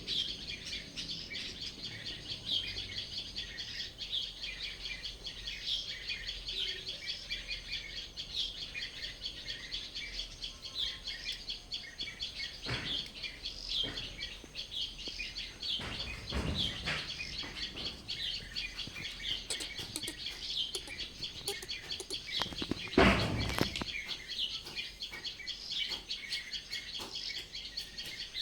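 Many small birds chirping and singing at once, a dense, continuous chatter of short high calls. A few dull thumps break in, the loudest about two-thirds of the way through.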